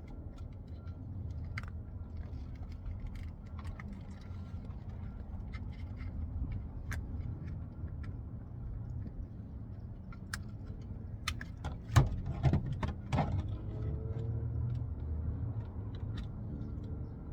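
Hand work on a truck door: light clicks and clinks of tools and parts being handled, with a burst of louder knocks and clatter about twelve seconds in, over a low steady rumble.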